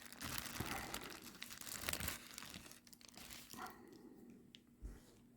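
Crinkling and rustling of plastic packaging handled by hand while a figure is unwrapped. It dies down after about two and a half seconds, leaving a couple of faint knocks.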